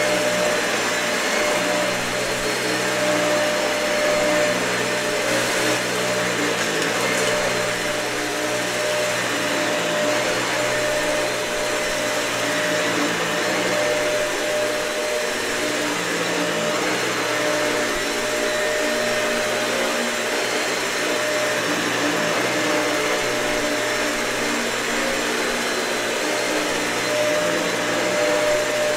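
Dyson vacuum cleaner running continuously over a thick, matted carpet: a steady motor whine over rushing air, with the lower hum shifting in pitch now and then.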